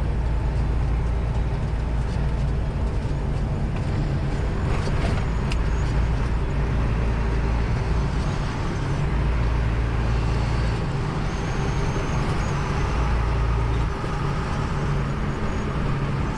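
Semi-truck engine and road noise heard from inside the cab: a steady low rumble as the truck drives along.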